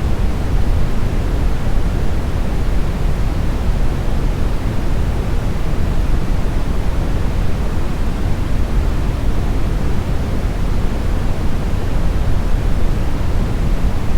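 Steady, smoothed brown noise: a deep, even hiss with most of its weight in the bass, thinning toward the treble, without change or events.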